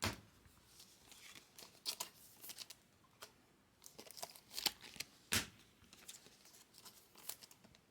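Trading cards and card packs being handled: irregular soft rustles, slides and clicks, one sharper click about five seconds in.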